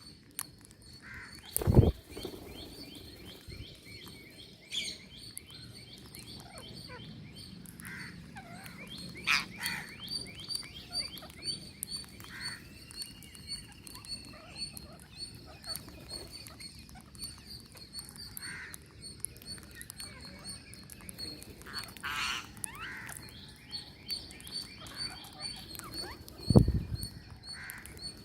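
Birds chirping and calling, with short scattered calls and one rising-then-falling whistle, over a rapid, steady high-pitched chirping that repeats many times a second. Two loud low thumps, one about two seconds in and one near the end, are the loudest sounds.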